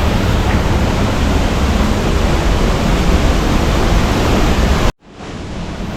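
Steady rushing of falling water, a waterfall's continuous roar. About five seconds in it cuts out abruptly and then fades back in.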